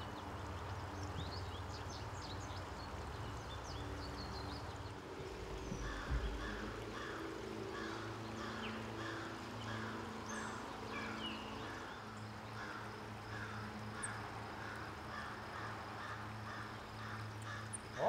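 Outdoor bird sounds: short high chirps at first, then a harsh call repeated about twice a second from about six seconds in, over a low steady hum. A low thump comes about six seconds in.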